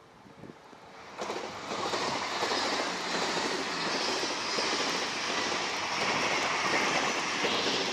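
Odakyu electric train passing over a level crossing. The rush of train noise comes in suddenly about a second in and then holds steady and loud. Before it, the crossing's warning bell rings faintly and rhythmically.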